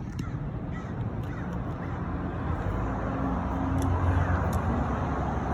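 Low rumble of road traffic, swelling a little from about three seconds in, as a vehicle goes by.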